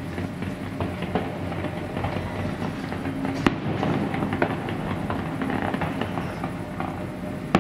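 Fireworks display going off: a dense, continuous crackle of many small pops, with a sharp bang about three and a half seconds in and another right at the end.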